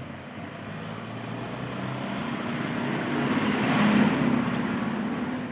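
A motor vehicle engine passing by: it grows steadily louder to a peak about four seconds in, then starts to fade.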